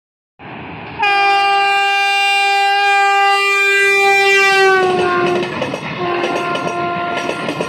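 WAP-4 electric locomotive's horn sounding one long blast as the train approaches, its pitch dropping as the locomotive passes by. Then the passenger coaches rush past with the wheels clattering rhythmically on the rails.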